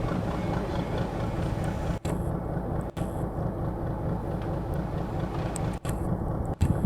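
An engine running steadily at low revs, a deep even rumble, broken by brief drop-outs about two and three seconds in and twice near the end.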